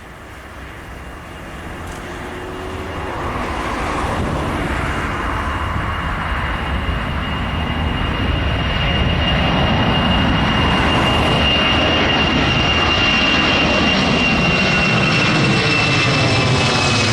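Boeing C-17A Globemaster III's four turbofan engines: jet roar that grows louder over about ten seconds and then holds, with a high steady whine that slides slightly lower near the end.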